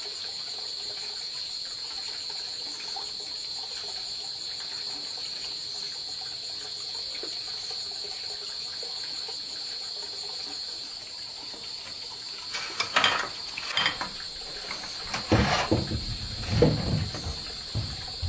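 Crickets trilling steadily in a high, even drone. From about twelve seconds in, a string of louder irregular knocks and clatters breaks in, loudest near the end.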